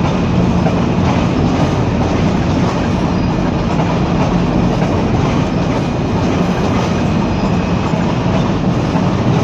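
GO Transit bilevel commuter coaches rolling past: a steady, loud rumble of wheels on the rails, with a low hum that is strongest in the first second or so.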